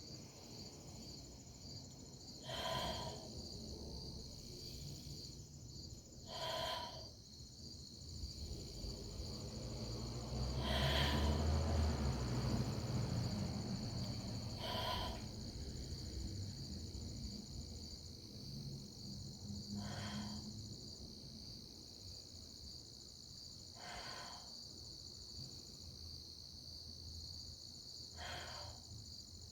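Crickets chirring steadily at night. Short breaths come about every four seconds, and a low rumble swells and fades about ten seconds in.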